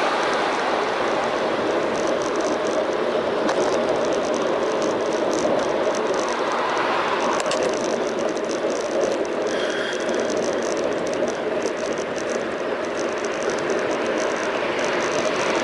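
Steady tyre, road and wind noise from a bicycle riding along, picked up by a bike-mounted action camera, with light rattling ticks over it.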